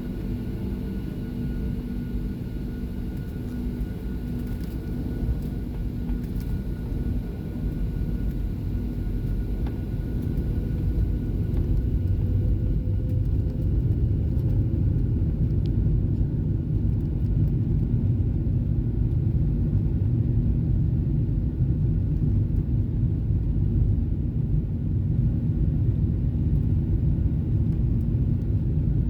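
Boeing 737-700 takeoff heard from inside the cabin: a steady rumble of the CFM56 engines and the roll, growing louder over the first ten or twelve seconds as thrust comes up, then holding steady, with a faint steady whine above it.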